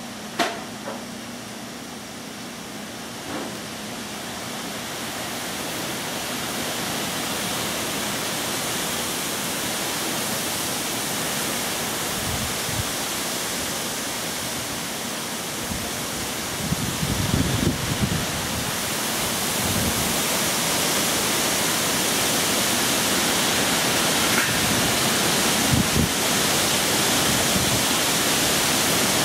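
Hurricane Irene's heavy rain and wind making a steady rushing hiss that slowly grows louder. There is a sharp click about half a second in, and a few low thumps about two-thirds of the way through.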